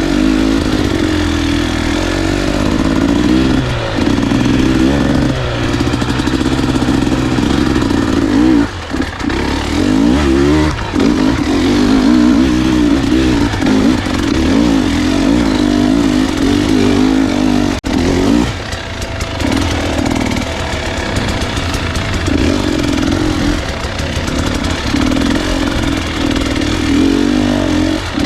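Dirt bike engine running under load on a trail, its pitch rising and falling as the throttle is worked. There are a few brief lifts off the throttle, with a sharp momentary drop about two-thirds of the way through.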